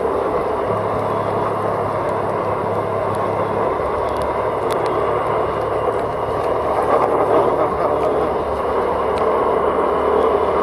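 Steady driving noise of a vehicle on the road: engine, tyre and wind noise. A low engine hum stands out for a few seconds near the start.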